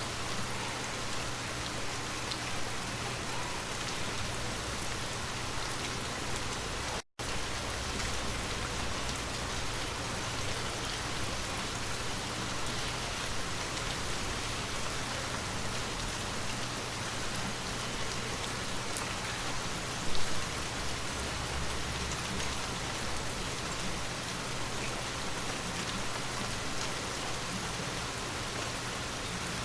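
Steady rain falling, an even hiss of drops on surfaces. The sound cuts out completely for a split second about a quarter of the way through, and there is a brief louder low thump about two-thirds of the way through.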